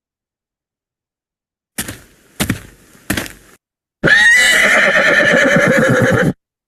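Horse sound effect: three hoof strikes, then a horse neighing for about two seconds, ending abruptly.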